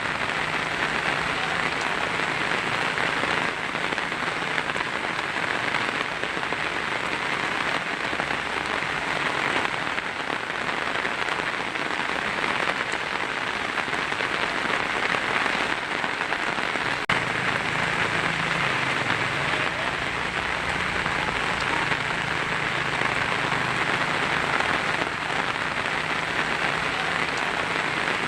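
Heavy rain drumming steadily on a tin roof: a dense, even patter with no single drops standing out.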